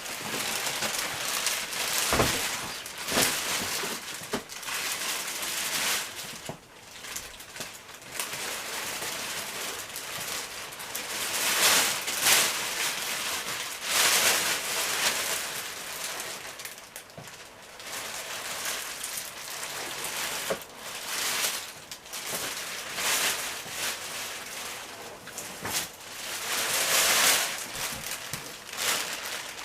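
Packaging being handled: irregular rustling and crinkling with scattered clicks and knocks as the dishwasher is lifted out of its box and its wrapping.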